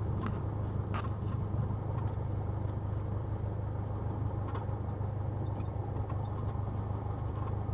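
Cessna 172's piston engine running steadily at low taxi power, a constant low drone heard from inside the cockpit.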